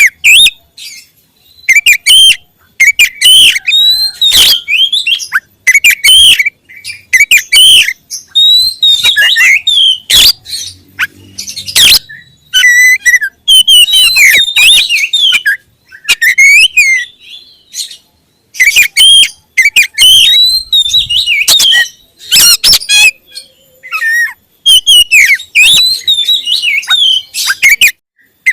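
Oriental magpie-robin (kacer) singing loudly in repeated bursts of varied, quickly gliding whistled phrases, with short pauses between bursts.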